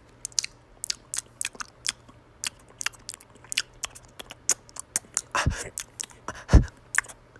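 A tuxedo cat chewing food close to the microphone: a quick, irregular run of sharp crunching clicks, with a couple of heavier crunches past the middle.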